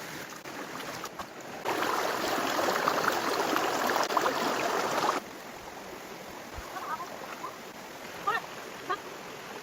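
Running water, with a louder, splashier rush that starts suddenly about two seconds in and stops suddenly about three and a half seconds later. A few short high chirps come near the end.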